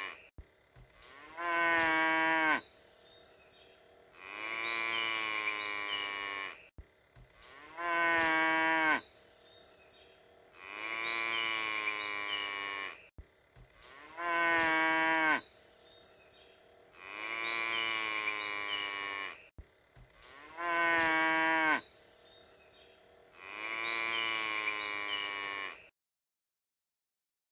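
Cattle mooing: long drawn-out calls in pairs, one clearer and higher with a rising-then-falling pitch, the other hoarser. The pair repeats four times about every six seconds, then the calls stop shortly before the end.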